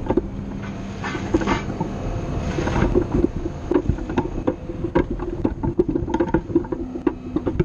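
Loader engine running steadily under the grapple, with frequent knocks and clunks as the grapple works a load, the knocks coming thicker after about three seconds.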